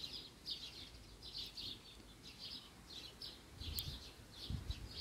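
Faint bird chirping: a steady series of short, high chirps, about three a second, with a faint low rumble near the end.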